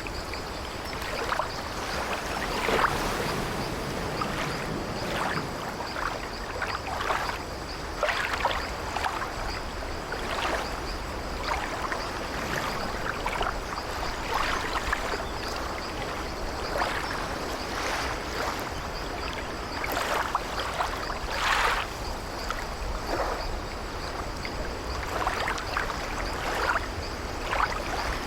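Sea waves washing against an old wooden sailing ship, with the ship's wooden timbers and deck creaking irregularly every second or two.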